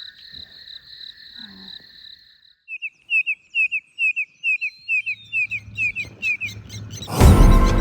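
Wild birds calling: a high pulsing trill at first, then a quick run of short down-slurred whistles, about three a second. Music comes in loudly near the end.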